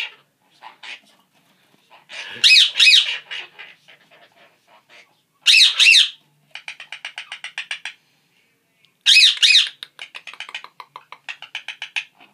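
Quaker parrots (monk parakeets) squawking: loud, harsh screeches in three bouts, about two seconds in, near the middle and about nine seconds in, with fast, rattling chatter of short clicks between them.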